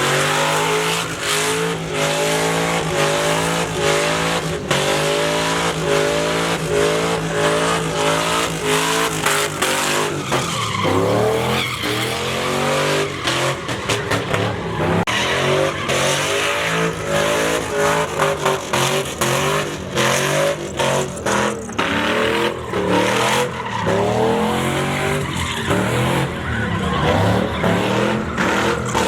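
Pickup truck doing a burnout: the engine is held at high revs, rising and falling again and again, while the rear tyres spin and squeal on the pavement.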